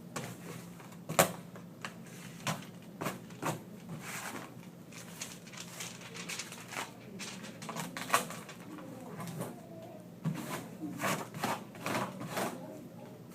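Scattered sharp clicks and knocks at an irregular pace, as of things being handled on a work surface, over a low steady hum; the loudest knocks come about a second in and again about eight seconds in.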